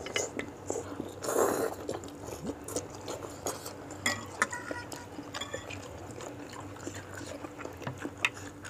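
Close-miked eating of meatball soup: chewing and wet mouth noises with scattered sharp clicks, likely utensils against the bowl, and a brief louder slurp-like noise about a second and a half in.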